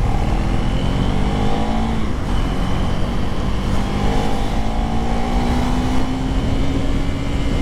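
KTM 390 Duke Gen 3's single-cylinder engine under acceleration, its pitch climbing, dipping briefly about two seconds in as with a gear change, then rising slowly again and dropping near the end. Wind noise rumbles underneath.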